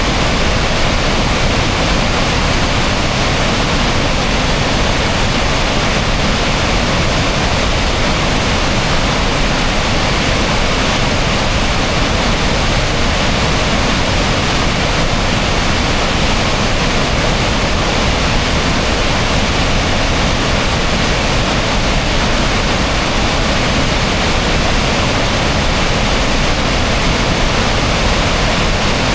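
Loud, steady rush of water pouring over Kakabeka Falls, a large waterfall on the Kaministiquia River.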